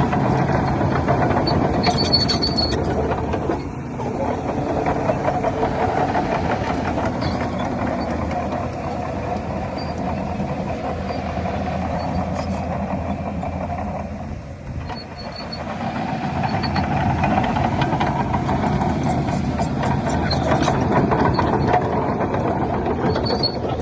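Crawler dozer's diesel engine running under working load, dipping briefly twice, with faint short high-pitched squeaks now and then.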